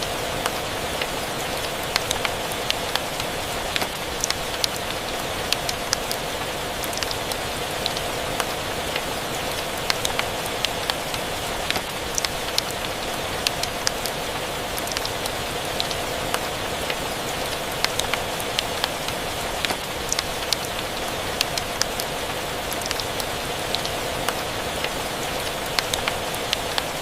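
Steady rain mixed with a crackling fireplace: an even hiss of rain with frequent irregular sharp pops and snaps.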